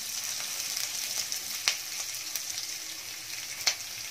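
Onion slices, a bay leaf and whole spices sizzling steadily in hot oil in a kadai while being stirred with a metal spatula, which clicks against the pan twice.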